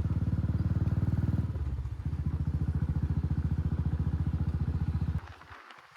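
Motorcycle engine running while being ridden, a steady low pulsing sound that eases slightly about two seconds in and then cuts off abruptly near the end.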